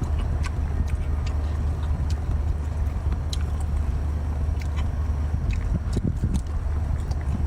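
Close-up crunching and chewing of crispy seafood, with scattered sharp crunches, over a steady low engine hum.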